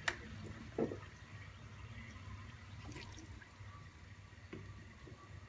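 Faint running water, with a sharp click at the start and a knock about a second in, over a low steady hum.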